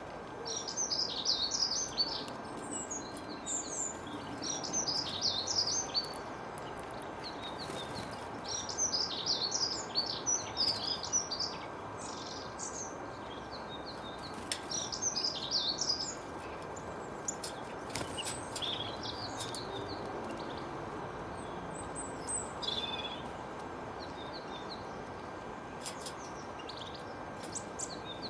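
Small birds chirping and twittering in busy bursts of a few seconds, growing sparser about halfway through, over a steady background hiss with a few scattered clicks.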